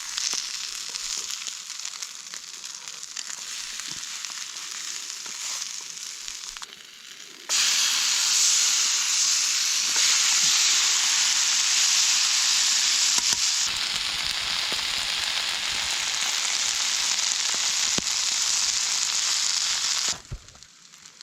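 Homemade cod fish cakes sizzling steadily in a frying pan over a campfire, with a sudden jump in loudness about seven seconds in and a sudden drop near the end.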